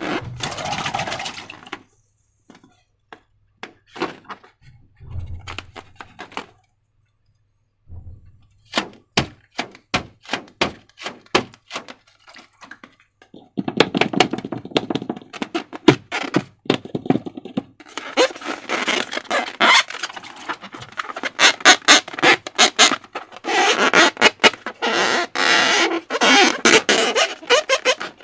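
Slime being squished and stretched by hand, with sticky crackling and clicking pops. A few scattered clicks come first, then dense, continuous squelching and crackling from about halfway in.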